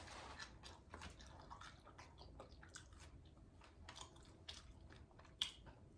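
Faint chewing: small wet mouth clicks and crackles of someone eating fried chicken wings, with one sharper click about five seconds in.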